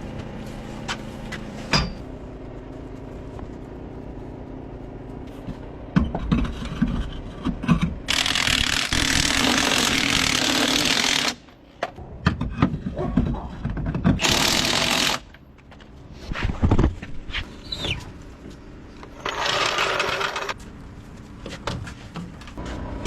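Workshop work noise: knocking and clattering of tools and parts, broken three times by a loud, even rushing hiss, about three seconds, one second and a second and a half long, over a steady low hum.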